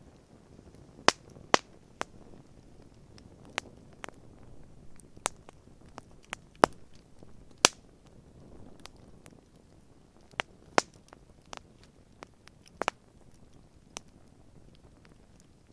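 Wood campfire crackling: sharp, irregular pops and snaps, about a dozen, over a soft steady hiss of burning.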